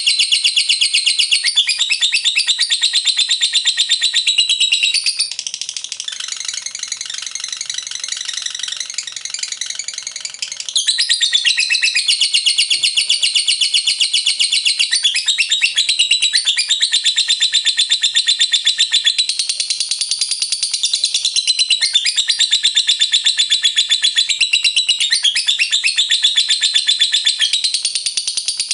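Lovebird singing the long, unbroken, rapid chattering trill known as ngekek. It is high-pitched throughout, with a softer stretch from about five to eleven seconds in.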